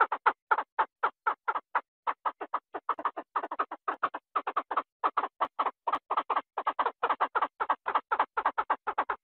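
Rapid, continuous series of short quacking calls, about five or six a second, with a brief pause about two seconds in.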